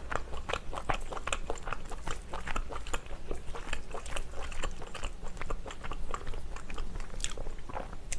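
Close-miked chewing of stir-fried sundae and pork tripe: a steady run of short, wet mouth clicks, a few a second.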